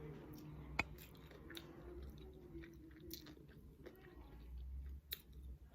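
A person quietly chewing a mouthful of taco close to the microphone, with small crunchy clicks and one sharper click about a second in.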